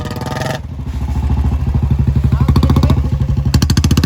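Royal Enfield Bullet 350 single-cylinder engine running with an even thumping beat, growing louder about a second in.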